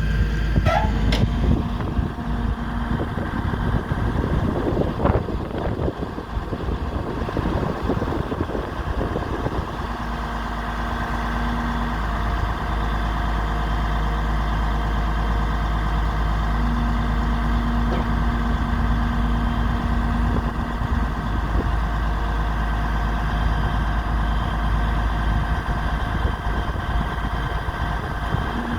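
DAF XF105.510 truck's diesel engine idling steadily. Irregular knocks and rattles sound over the first several seconds, and a steady hum rises in and drops out twice later on.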